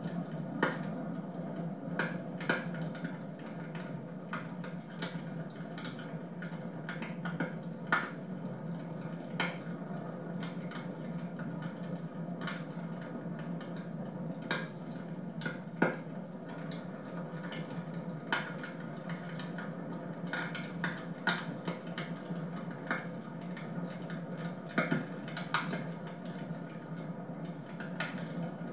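Wood fire burning in a fireplace, with irregular sharp crackles and pops over a steady low background noise.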